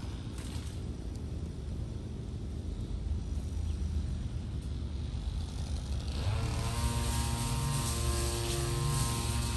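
A low, steady rumble of engine noise. About six seconds in, a steady engine hum with many overtones comes in and the sound grows a little louder.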